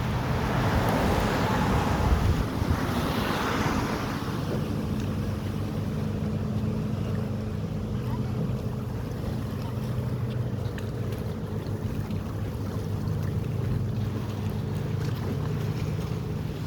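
Boat motor running steadily under the rush of water and wind on the microphone. The rush is louder in the first few seconds, then settles.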